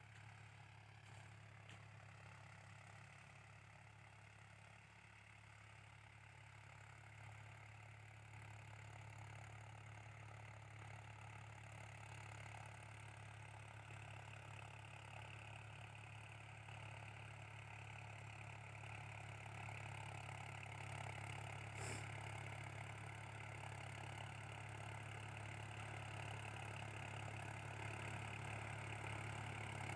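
Swaraj 960 tractor's diesel engine running at a steady speed, slowly growing louder, with one short click about two-thirds of the way through.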